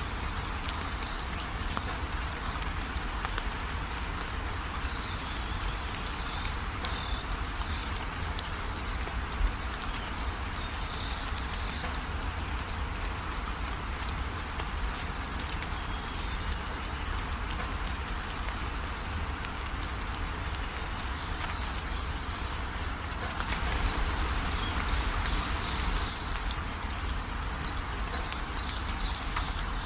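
Steady rain falling, with small birds chirping over and over through it. The rain swells louder for a couple of seconds about three-quarters of the way in.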